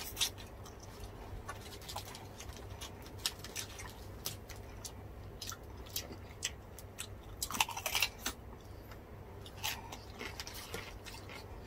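Close-miked chewing and crunching of crispy deep-fried pork (bagnet) with lettuce leaves. Irregular crisp crunches and mouth clicks come thicker about two-thirds of the way through.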